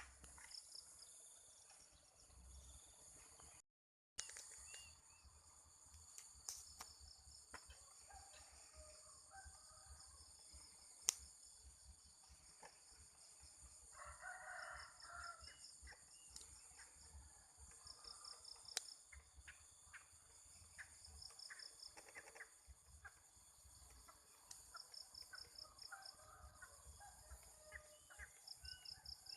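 Faint rural morning ambience: a steady high insect drone with repeated trains of cricket-like chirps, small birds calling, and a rooster crowing.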